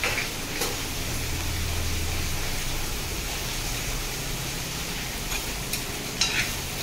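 Sliced onions sizzling steadily in hot oil in a kadai, with a few short clicks of a steel spoon against the pan as they are stirred.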